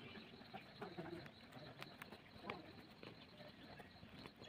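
Near silence with faint bird cooing in the background and a few soft clicks.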